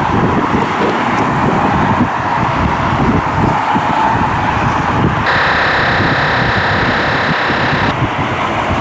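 Strong wind buffeting the microphone over a steady background rumble. About five seconds in, a steady hum with several pitches starts abruptly, holds for about two and a half seconds and cuts off suddenly.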